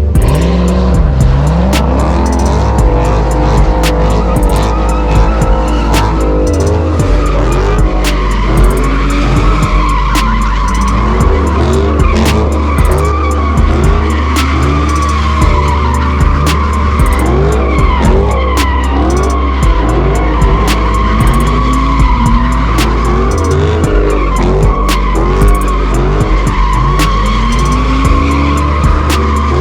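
Car tyres squealing continuously with the engine revving up and down, as at a takeover burnout or donuts. Music with a heavy, stepped bass beat plays over it.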